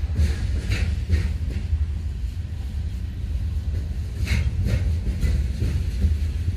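Freight train rolling past: a steady low rumble of wheels on the rails, with a few short sharp clicks about a second in and again past four seconds.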